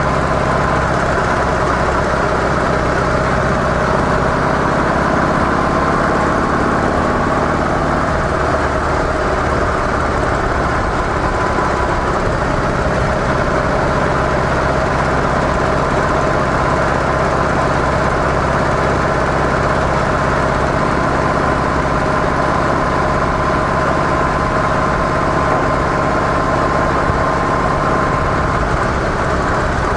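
Harley-Davidson CVO Softail Deluxe's V-twin engine with stock mufflers running steadily, under an even rush of noise that does not change.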